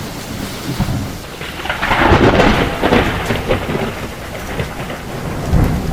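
Heavy rain falling, with a low rumble underneath; the rain noise swells louder about two seconds in.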